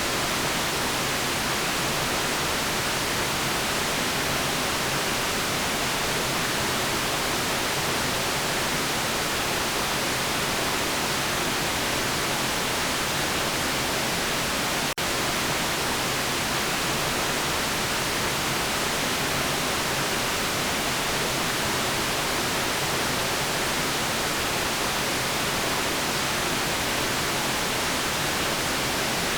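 Steady white noise: an even, unbroken hiss, brightest in the treble, with a momentary dropout about halfway through.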